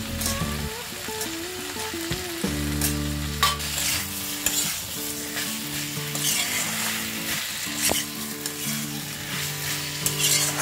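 Chicken pieces and potatoes sizzling in hot oil in a kadai while a metal spatula stirs them, scraping and clinking against the pan several times.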